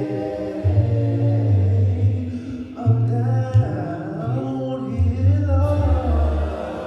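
Church congregation and singers slowly singing a gospel hymn of invitation. Long held notes are sung over a steady, sustained low bass accompaniment.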